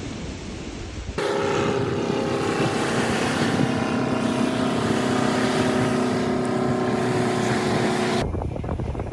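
Wind buffeting the microphone, then a boat engine running steadily with a constant hum of several held tones for about seven seconds, starting and stopping abruptly at edits, then wind on the microphone again.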